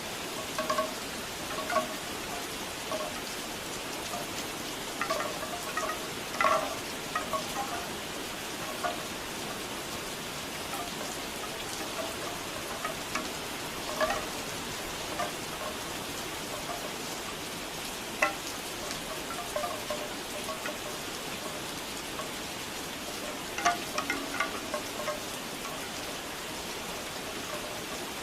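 Bamboo wind chimes clacking irregularly, hollow wooden knocks in scattered clusters, over steady rain.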